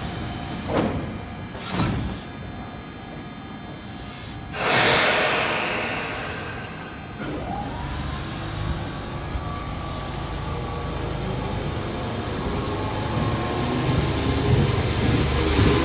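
Tobu Skytree Line electric commuter train starting away from a station stop: two short knocks, then a loud hiss of air about five seconds in as the brakes release. A motor whine then rises and holds steady while the rumble of the train grows as it picks up speed.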